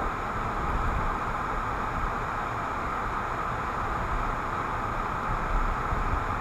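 Steady road noise inside a moving car, picked up by a windshield dash camera: a constant hiss of tyres on the road over a low engine and road rumble.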